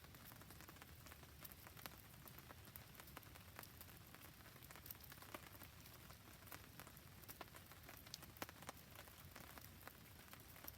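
Faint, steady rain falling on a surface, with many scattered sharp ticks of drops and crackle, beside a campfire burning.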